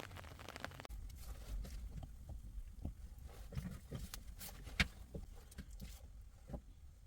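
Rain pattering for about a second, then it cuts to quieter scattered light knocks and taps over a low rumble, with one sharp click near the middle.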